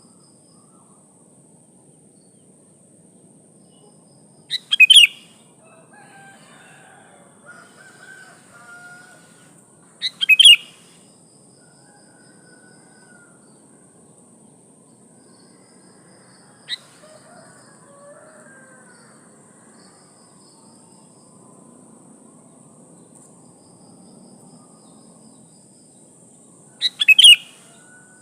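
Female sooty-headed bulbul (kutilang) calling, used as a lure to provoke males: three short, loud calls, each a quick pickup note followed by a sharp burst, about five seconds in, about ten seconds in, and near the end, with softer, fainter notes between them.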